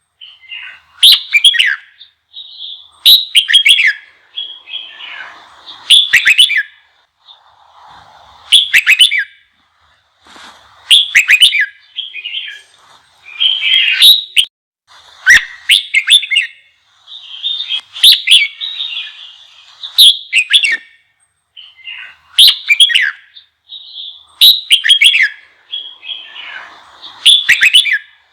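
Red-whiskered bulbul singing a fiery, aggressive challenge song used to rouse a newly caught wild bulbul. Short, loud, rapidly warbling phrases repeat about every two seconds with brief pauses between.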